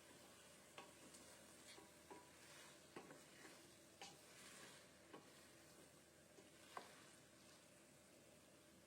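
A spoon or spatula stirring food in a cooking pot, with a handful of light knocks and scrapes against the pot over a faint sizzle.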